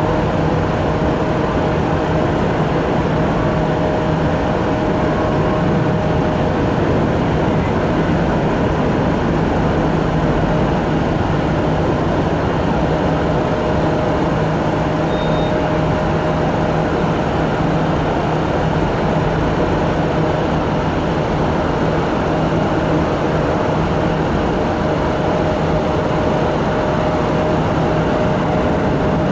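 Steady jet engine noise from a UPS McDonnell Douglas MD-11 freighter, an even roar with a low hum and a higher steady tone running through it, holding the same level with no build or fade.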